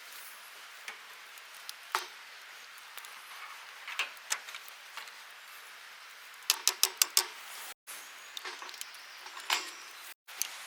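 Scattered sharp clicks and ticks over a faint steady hiss, with a quick run of about six clicks a little after halfway.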